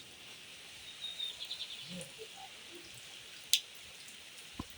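Light rain falling steadily, with a bird giving a short run of quick high chirps about a second in and a single sharp click past the middle.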